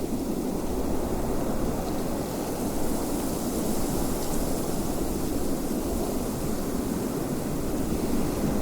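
Wind blowing steadily, a low rushing noise with a fainter hiss above it and no breaks or gusts that stand out.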